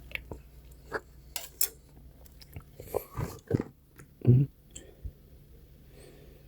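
Scattered clicks and short scrapes from handling a plastic microwave-meal tray and utensil, with a dull thump about four seconds in.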